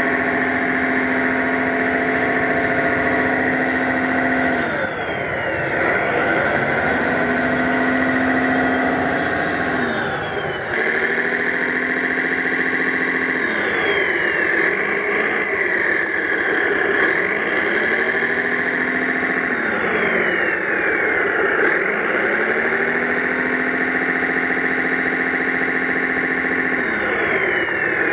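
Motors of a radio-controlled 1/5-scale model tractor running steadily. Every few seconds a whine swoops down in pitch and back up as the machine changes speed and load.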